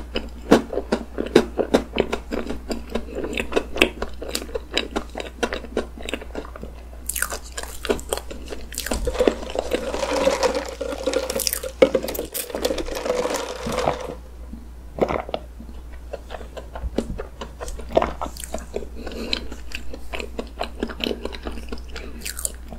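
Close-miked chewing and mouth sounds of a mouthful of chocolate cake with whipped cream, moist clicks and smacks. From about 7 to 14 seconds in, iced coffee is sipped through a straw, a hissing slurp with swallows. Then the chewing resumes.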